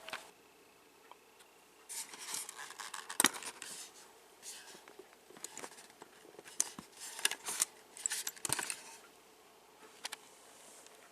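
Small plastic parts of a Lionel Percy toy locomotive being handled, likely its removable roof and the switches beneath: scattered clicks and scraping rubs in short bouts, with a couple of sharper clicks.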